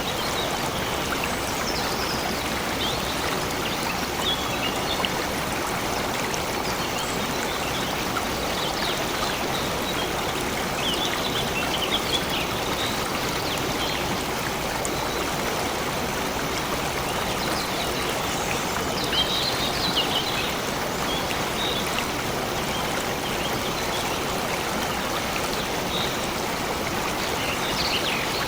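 A stream flowing steadily, with short high bird chirps now and then.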